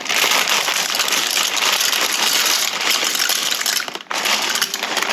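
Dry pasta poured from its crinkling plastic bag into a pot of soup: a dense crackling and rustling, with a brief break about four seconds in.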